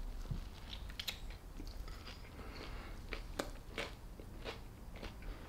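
A person biting into and chewing a prison burrito, a wrap stuffed with ramen, crushed chips and cheese, with short irregular crackles as the filling is chewed.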